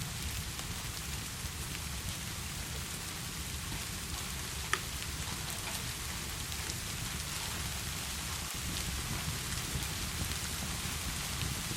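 Heavy, steady rain falling, with a low rumble underneath and scattered light ticks of drops. One sharper tick comes about a third of the way in.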